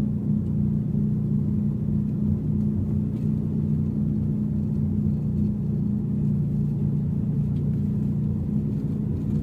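Car being driven at a steady pace: a low, even drone of engine and road noise with a steady hum, no change in speed.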